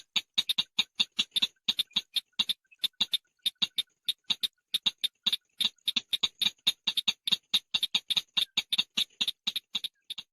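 Call of the chàng nghịch bird: a fast run of short, sharp chips, about four to five a second, with a brief break about three seconds in.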